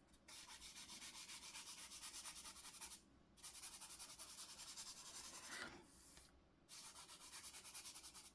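Faint rubbing on paper in quick back-and-forth strokes, about four or five a second, in three runs with short pauses between them: colours on a drawing being blended in.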